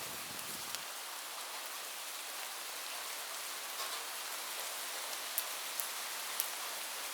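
Steady rainfall, an even hiss of drops, with a few sharper drop strikes standing out about two-thirds of the way through.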